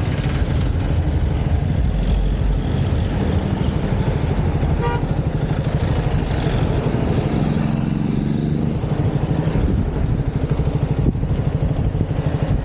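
KTM Duke 200's single-cylinder engine running on the move, a dense low pulsing under steady wind hiss. A short high beep sounds about five seconds in.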